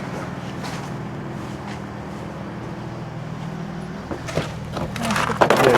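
A steady low hum from a running motor or engine, with a few knocks and then a louder rattling clatter near the end.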